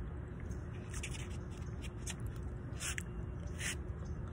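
Close-up chewing of chili cheese fries, with a few sharp wet mouth smacks about one, three and three and a half seconds in, over a steady low rumble.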